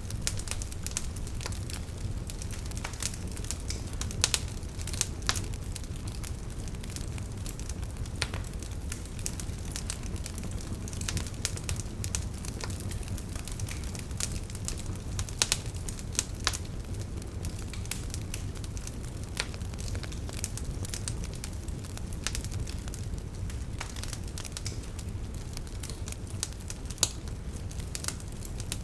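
Wood fire crackling, with irregular sharp pops over a steady low rumble of burning; a few pops stand out louder.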